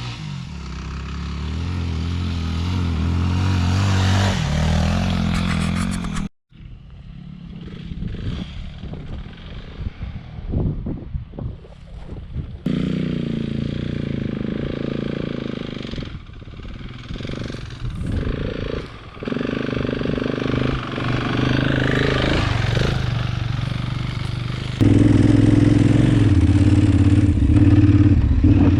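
KTM 990 Adventure's LC8 V-twin engine under way off-road, its revs rising and falling as the rider works the throttle. The sound cuts out abruptly about six seconds in and gets louder again about 25 seconds in.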